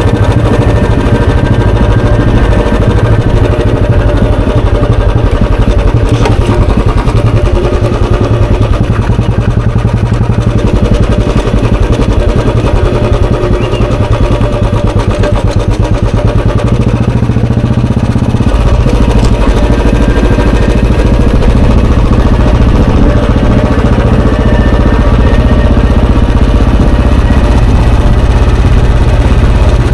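Royal Enfield Bullet 350's air-cooled single-cylinder four-stroke engine running under way, its exhaust note steady and low. A little past halfway the note gets fuller and slightly louder as the bike pulls harder.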